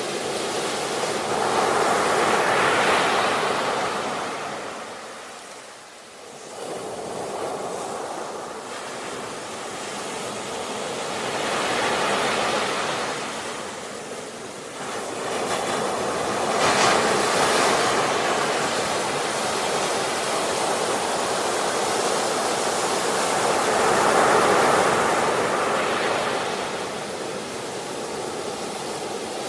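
Ocean waves breaking and washing on a shore, a steady surf hiss that swells and falls back in several slow surges about every six to eight seconds, with a brief lull near the start.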